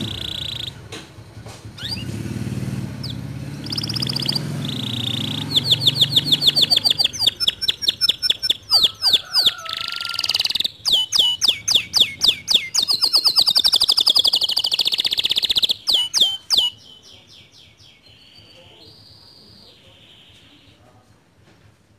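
Domestic canary singing a long song of fast trills and rapid repeated notes. The song drops away after about 17 seconds, leaving a few faint chirps.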